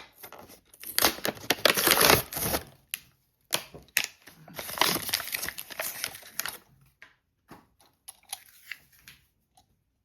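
Toy box packaging being torn open and crumpled by hand, in several bursts of ripping and rustling. The biggest come in the first three seconds and again around five to six seconds, then it trails off into smaller rustles.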